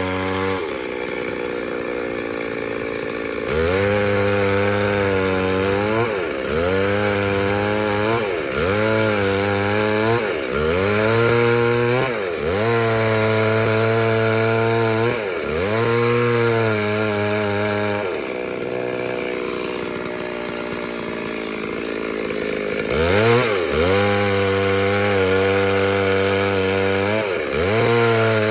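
Two-stroke chainsaw running at high revs and cutting wood. Its pitch repeatedly dips and climbs back every couple of seconds, with two longer spells at lower revs.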